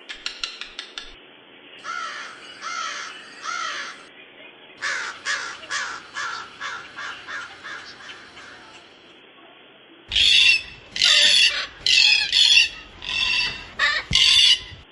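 A parrot's harsh squawking calls in several runs: three calls about two seconds in, a quick series of shorter calls from about five to nine seconds, and a louder run of harsh calls from about ten seconds in.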